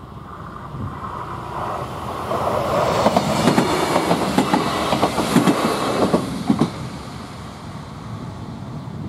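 A regional diesel multiple unit passing over a level crossing close by. It builds up from about a second in, then a quick run of sharp wheel clacks over the rail joints and crossing follows from about three to six and a half seconds in, and it fades away as the train leaves.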